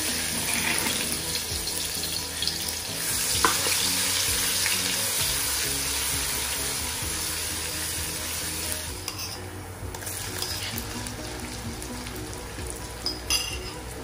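Chopped shallots and garlic sizzling in hot oil in a wok as they are stirred with a wooden spatula; the sizzle is loudest at first and fades slowly as they fry. A sharp tap comes about three and a half seconds in, and a couple of clicks near the end.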